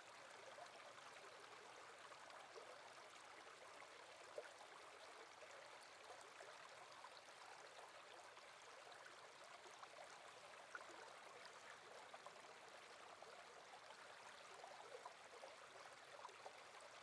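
Faint, steady flowing water of a stream or river.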